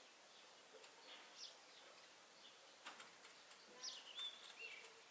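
Faint birdsong: a few short, high chirps falling in pitch and a brief whistled note, over quiet outdoor background hiss.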